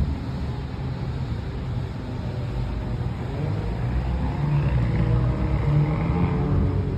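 Road traffic noise: cars running past, with one vehicle's engine growing louder toward the middle of the stretch and easing off near the end.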